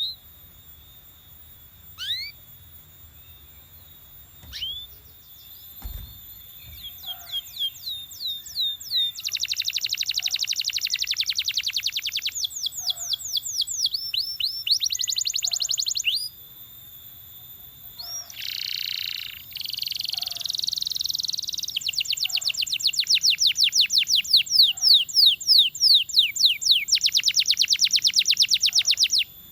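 Belgian canary singing: a few single falling call notes, then a long song of fast trills of repeated notes, some sweeping down in pitch and others dense and buzzy, with a harsh grating phrase a little past the middle.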